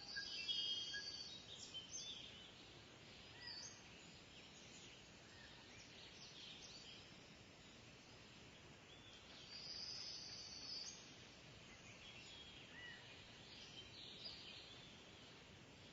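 Kingfisher calling: a shrill, high-pitched call lasting about a second near the start and again about ten seconds in, with scattered fainter short chirps over a steady outdoor background hiss.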